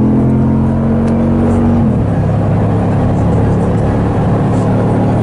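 Jeep Grand Cherokee SRT8's V8 engine running loud and steady under way. Its note drops suddenly in pitch about two seconds in, then holds steady again.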